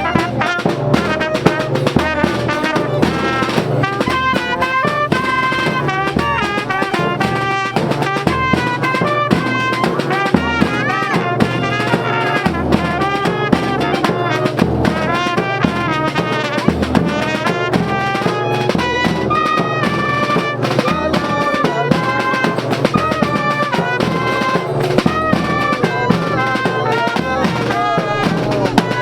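A band playing live: a melody of held, stepping notes on wind instruments over steady drumming.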